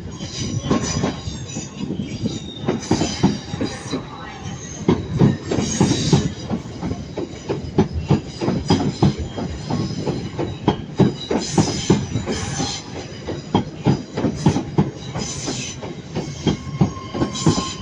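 A train rolling through the station over points and rail joints: a continuous, irregular clatter of wheel knocks, with high wheel squeal coming and going.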